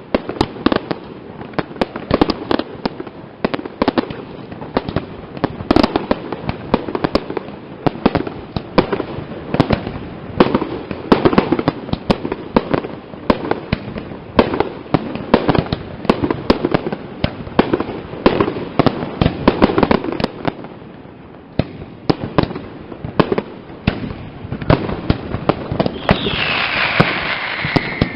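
Castillo aerial fireworks display: a dense, rapid run of loud bangs and cracks from bursting shells, easing briefly about three-quarters of the way through, then joined by falling whistles near the end.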